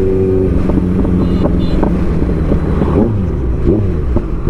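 Motorcycle engine running with wind on the microphone. After about half a second the steady engine note gives way to several engine notes rising and falling in pitch, as vehicles pass.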